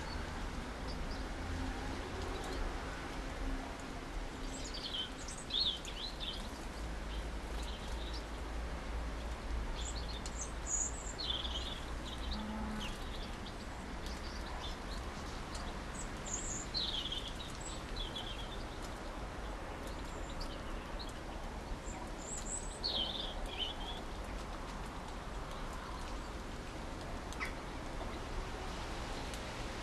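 Small garden songbird calling in four short, high phrases about six seconds apart, over a steady low background rumble.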